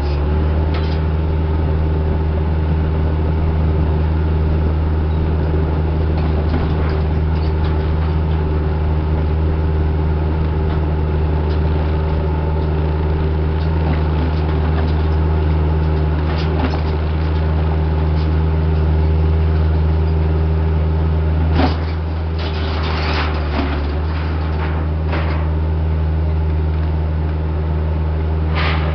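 A heavy-equipment diesel engine runs steadily with a deep, even drone. Its note eases slightly about three-quarters of the way through, and a few sharp clanks and rattles come around then and again near the end.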